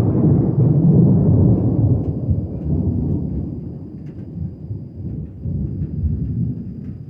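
Deep rolling thunder rumbling, dying away over the last few seconds, with light rain falling faintly.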